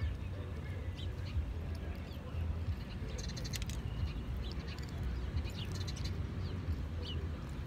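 Birds calling and chirping in short scattered bursts, busiest about three and a half seconds in, over a steady low rumble.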